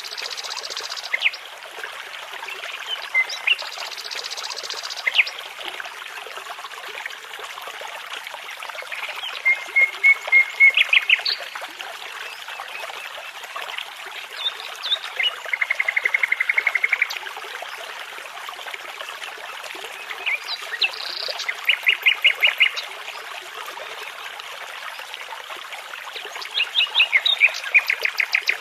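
Nightingale song over a steady babbling brook: several separate phrases of rapid repeated notes and buzzy trills, a few seconds apart, with single clear notes in between.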